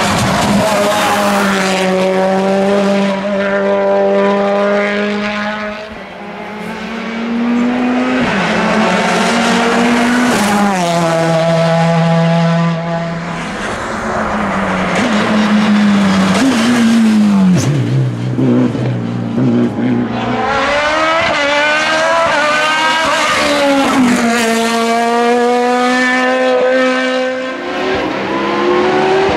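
Hillclimb race cars' engines running hard at high revs. The pitch is held near-steady, drops at several points, then climbs again as the cars shift gear and accelerate.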